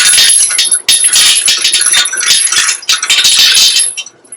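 Loose metal rattling and clinking, dense and continuous, as something metal is worked through a hole in a tractor wheel; it stops about four seconds in.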